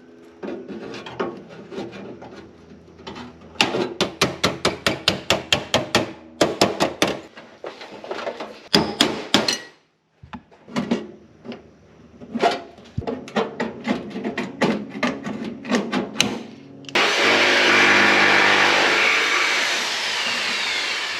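Hand-tool work: runs of rapid, sharp knocks and taps, several a second. About four seconds before the end, a power tool starts and runs steadily.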